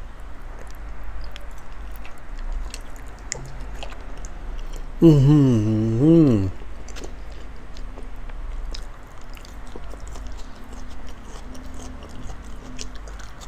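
Wet chewing of a large mouthful of raw salmon, with faint scattered mouth clicks and smacks. About five seconds in comes a loud, wavering hummed 'mmm' of enjoyment from the eater, lasting about a second and a half.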